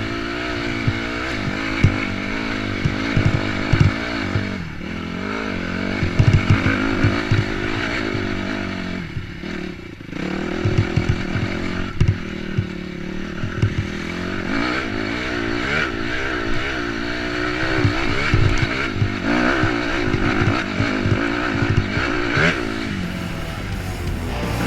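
Dirt bike engine running under changing throttle, its pitch rising and falling as it revs, easing off briefly about nine seconds in, with frequent low thumps from the rough trail.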